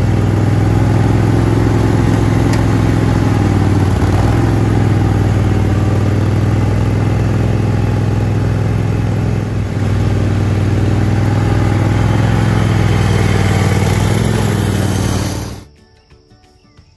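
Garden tractor engine running steadily under load while its rear tiller smooths a bed of wood chips. The sound cuts off abruptly near the end, leaving only faint background.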